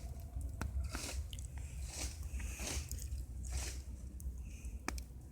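Campfire crackling and popping, with irregular sharp snaps of burning wood several times a second over a low rumble.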